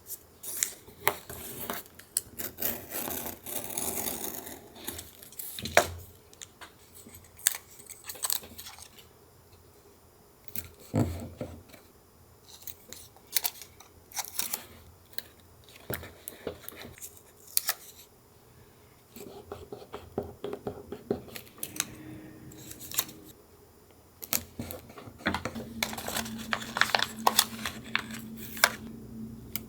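Paper-collage crafting: scissors snipping through paper, with paper being handled and torn and many small taps and clicks on the desk. Near the end a low steady hum runs under the clicks.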